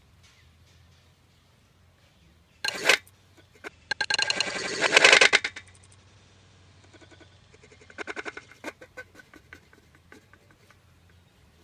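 A short rustle, then a bird giving a fast rattling chatter for about a second and a half, with a weaker run of the same chatter later.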